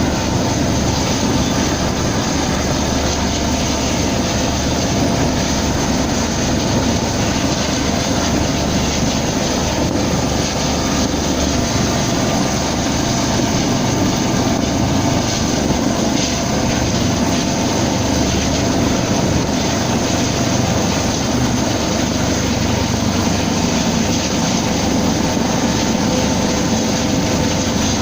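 Helicopter hovering close overhead, its rotor and turbine engine running in a loud, steady din.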